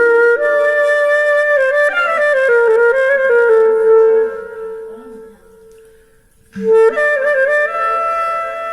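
Melody in single sustained notes with a clarinet-like woodwind tone, an instrument played through a Zoom G3n multi-effects processor set to a clarinet-style patch. The line fades out about halfway through, pauses briefly, then comes back with long held notes.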